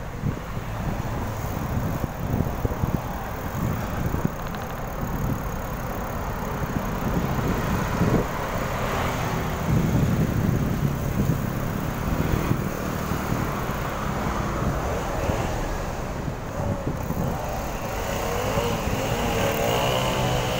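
Road traffic with wind rumbling on the microphone while cycling; near the end a motor vehicle's engine comes closer and grows louder, its pitch wavering.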